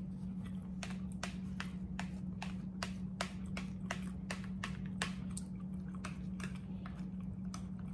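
A person chewing food with open-mouth smacking: a run of sharp, wet clicks about three a second, over a steady low hum.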